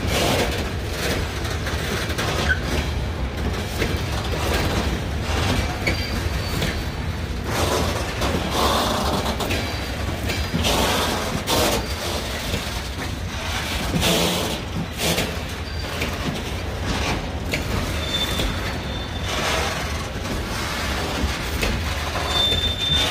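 Loaded railway tank wagons of a freight train rolling past close by: a steady low rumble of wheels on rail with frequent knocks and clanks as the wheels cross the rail joints, and brief high squeals near the end.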